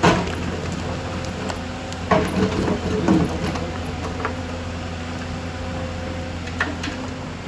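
Excavator's diesel engine running steadily, with a few sharp metallic knocks, the loudest right at the start and others about two, three and six and a half seconds in.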